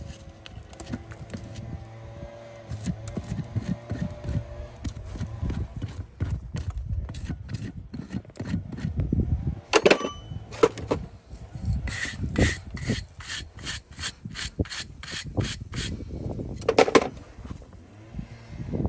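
Hand-tool work: repeated scraping and rubbing strokes with knocks, including a quick run of about three strokes a second past the middle. A steady hum fades out about five seconds in.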